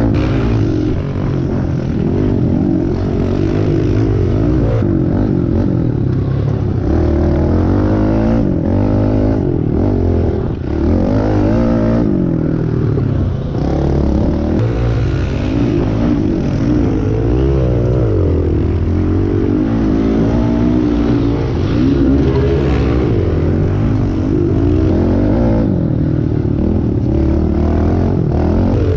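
Kawasaki KLX110 pit bike's small single-cylinder four-stroke engine being ridden hard, revving up and easing off again and again as it goes through gears and corners.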